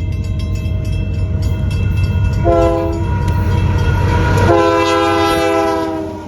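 Diesel locomotive's multi-chime air horn sounding a short blast and then a long one, the closing short-long of a grade-crossing signal, over the rumble and wheel clicks of the passing train. The rumble drops away as the long blast begins.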